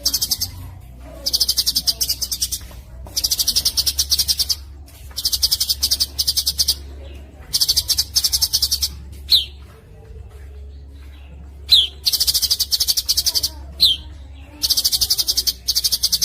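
Songbird song for training cage birds: fast, dense high trilled phrases, each a second or more long, repeated with short gaps. From about nine seconds in, single short sharp falling whistles come between the trills, over a low steady hum.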